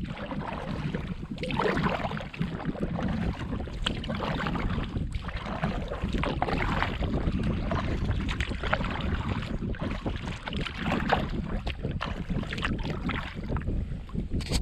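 Water splashing and sloshing around a moving canoe, with wind buffeting the microphone in a steady low rumble.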